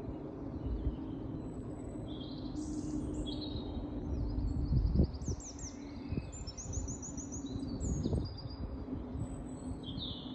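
Small songbirds singing and chirping in spring, a mix of short chirps and rapid high trills from about two seconds in. Underneath runs a steady low rumble with a faint hum and a few dull thumps.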